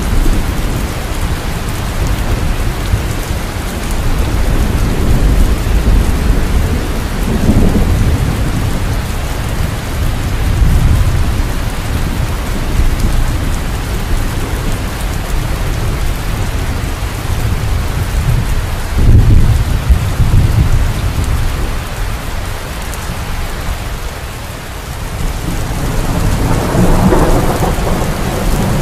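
Thunderstorm: steady heavy rain with rolling thunder, the loudest rumble about two-thirds of the way through.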